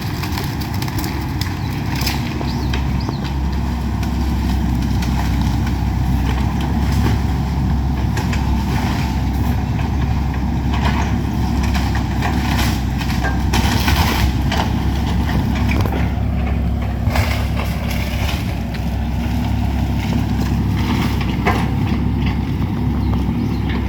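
Excavator's diesel engine running steadily, with repeated cracks, crunches and knocks of the house structure being broken apart.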